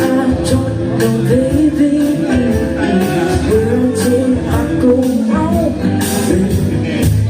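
Live rock band playing: a singer's voice over guitar and drums, with drum and cymbal hits about twice a second.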